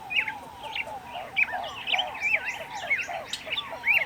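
A flock of birds calling over one another without pause: a steady chatter of low arching notes mixed with louder, higher swooping chirps.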